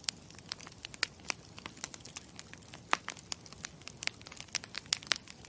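Campfire crackling: irregular sharp pops and snaps over a steady low hiss, with one louder pop about three seconds in.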